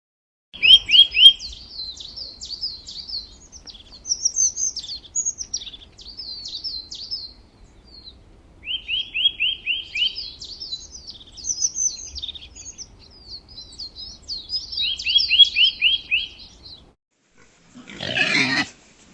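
A songbird singing: phrases of quick chirping notes mixed with fast trills of repeated down-slurred notes, broken by short pauses. Near the end a brief, harsher sound cuts in.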